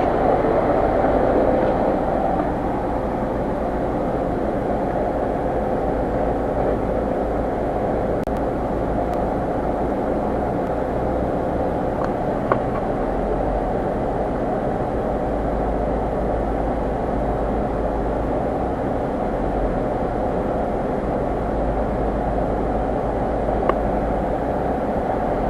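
A car running steadily: an even mechanical hum with no change in speed, plus a few faint clicks.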